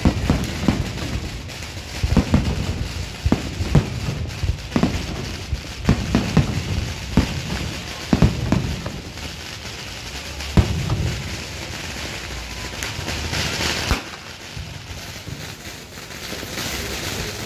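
Aerial firework shells bursting in a rapid barrage of sharp booms, the loudest about ten seconds in. Near the end a high crackling hiss rises and then the barrage eases off.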